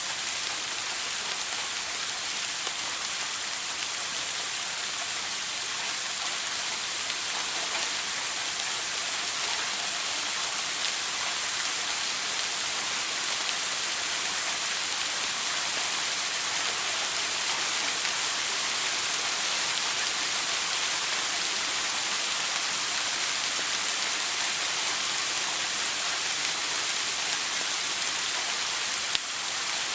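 Shower water spraying and splashing steadily, an even hiss with one brief click near the end.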